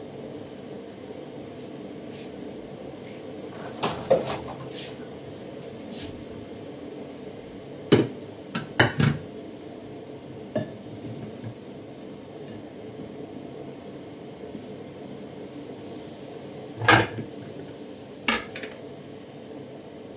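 Kitchen clatter: pots, pans and utensils knocking and clinking now and then, about six sharp knocks spread out, over a steady background hiss.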